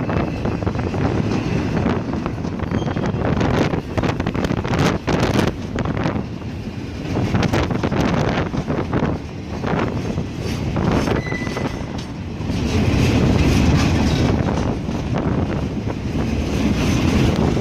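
A train rolling past, its wheels clacking over rail joints in a steady run of sharp clicks over a continuous rumble.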